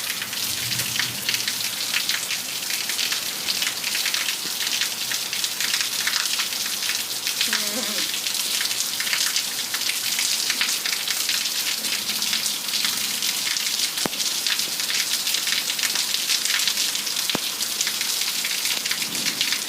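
Heavy thunderstorm rain pouring down steadily, an even hiss of rain striking surfaces.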